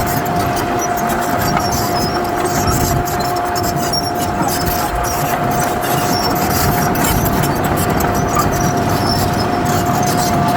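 Heavy diesel earthmoving machinery running steadily, with a constant high-pitched whine over the engine noise.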